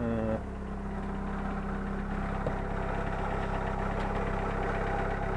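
Car engine idling steadily with a light rattle from its hydraulic valve lifters, a sign of wear on a high-mileage engine.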